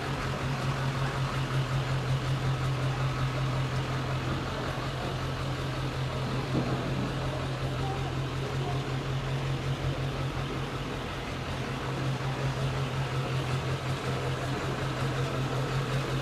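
Car engine idling steadily: a low, even drone with a fine regular pulse.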